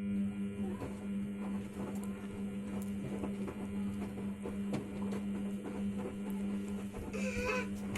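Samsung washing machine starting a steady, low hum with light clicks over it, partway through a 60 °C cotton wash; a short wavering tone sounds near the end.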